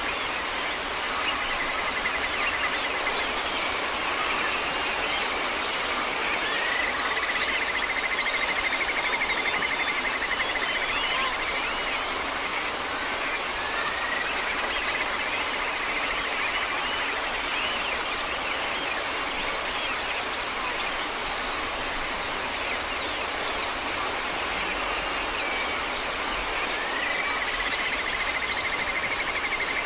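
A bird singing long, buzzy trills, each opening with a short upward sweep and then holding a level pitch for several seconds, repeated about four times over a steady hiss of background noise.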